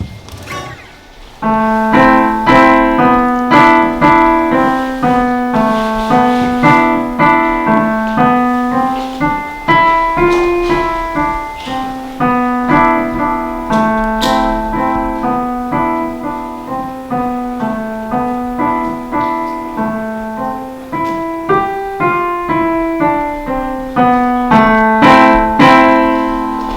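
A child practising a piece on the piano, playing a steady run of notes over a repeating bass line. The playing starts about a second and a half in.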